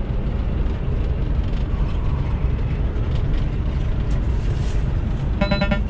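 Semi truck's engine and road noise heard inside the cab while driving, a steady low rumble. Just before the end there is a brief high-pitched tone.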